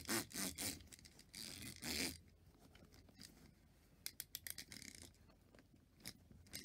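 Small clockwork wind-up toy beetle clicking and scraping in short bursts as it is wound and its wheels turn: a rapid run of ticks at first, a scraping hiss a little over a second in, then fainter clicks later.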